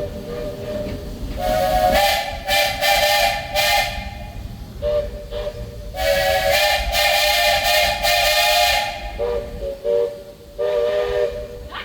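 Walt Disney World Railroad steam locomotive's chime whistle blowing a series of blasts: two long, loud ones with a hiss of steam, and several shorter, softer ones between and after them. The train's running rumble lies underneath.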